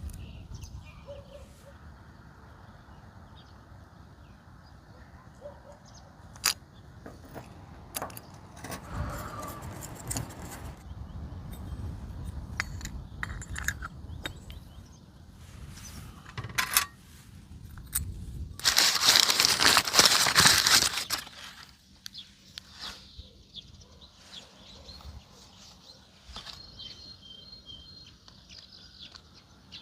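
Scattered clicks and clinks of small carburetor parts being handled and worked on, with a loud hiss lasting about two seconds in the middle.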